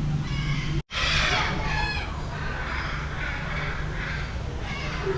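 Birds calling: a run of harsh, repeated calls over a steady low hum, broken by a brief silent gap a little under a second in.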